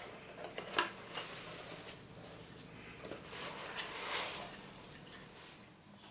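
Kitchen handling sounds: a sharp knock about a second in, then two stretches of rustling and scraping.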